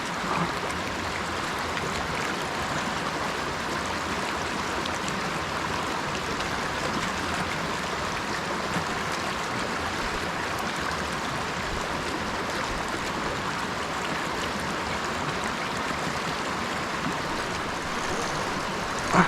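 Creek water flowing, a steady even rush with no breaks.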